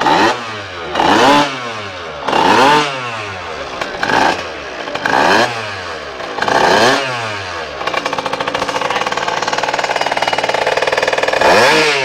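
Yamaha Jog/Aerox scooter engine through a Turbo Kit (TK) aftermarket exhaust, revved in about six short throttle blips that each rise and fall in pitch. It then settles to a steady run and is blipped once more near the end.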